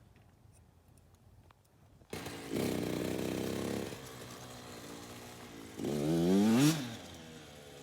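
Dirt bike engine: it comes in suddenly about two seconds in, runs loud for a second or so, eases to a steady idle, then is revved once just after six seconds with the pitch rising and falling back before it settles to idle again.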